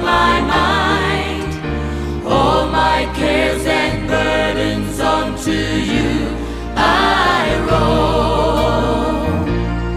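Gospel worship song: a choir sings sustained notes over keyboard and bass accompaniment.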